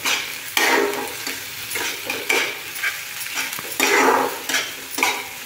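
Onion and ginger-garlic paste sizzling in ghee in a kadhai, with a steel spatula scraping the pan in repeated stirring strokes, about one a second.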